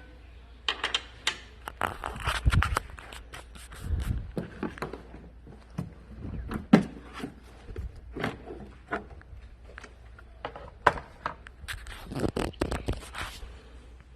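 Plastic engine-bay trim covers being unclipped and pulled off by hand: repeated sharp clicks and snaps with scraping and light knocks, coming in short clusters with brief pauses between.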